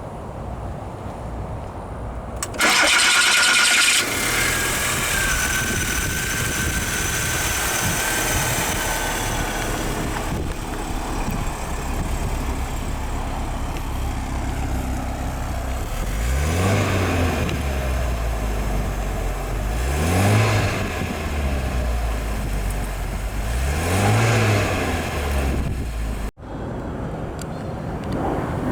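1988 Volkswagen Jetta's 1.8-litre inline four-cylinder engine starting a few seconds in with a loud burst, settling to a steady idle, then revved three times, each rev rising and falling back.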